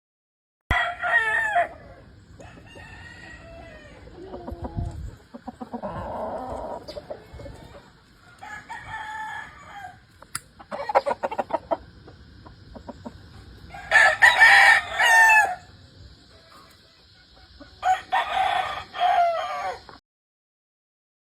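Gamefowl roosters crowing three times, about a second in, about two-thirds of the way through and again near the end, with hens and roosters clucking in between.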